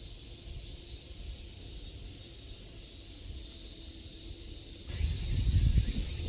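Steady high-pitched hiss of an insect chorus. A low rumble joins about five seconds in.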